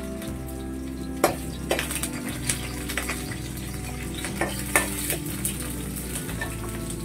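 Sliced onions sizzling as they fry in oil in an aluminium kadai, while a steel spoon stirs them, knocking and scraping against the pan several times; the sharpest knocks come a little over a second in and near five seconds.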